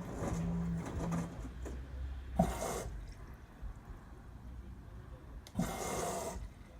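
LG Tromm WD-CR101C front-loading drum washing machine in its wash phase: a low hum in the first second, then water and laundry sloshing in the turning drum in two short surges, about two and a half and five and a half seconds in.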